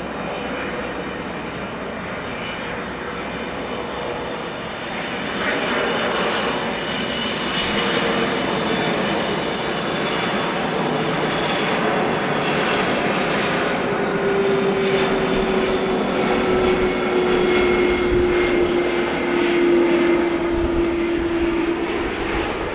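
Boeing 777-200 jetliner on landing approach, the noise of its twin turbofan engines growing louder as it passes. A whine slowly falls in pitch through the second half, over a steady rushing noise and a few high steady tones.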